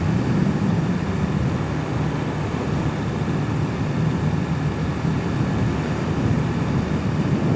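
Hawk 250 enduro motorcycle's engine running steadily while riding, mixed with wind noise.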